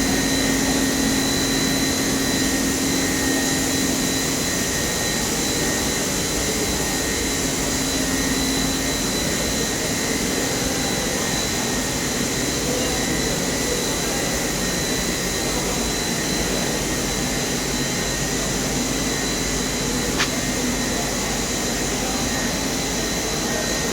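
Rubber extrusion and microwave vulcanization line running: a steady machine noise with a constant high whine over a hiss. A single sharp click comes about 20 seconds in.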